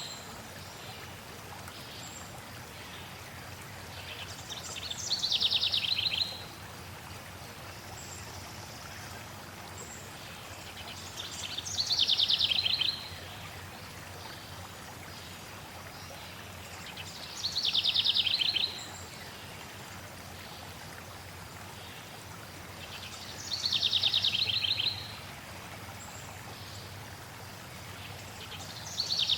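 A songbird repeating a short, fast trill, slightly falling in pitch, about every six seconds, over a steady rush of flowing water.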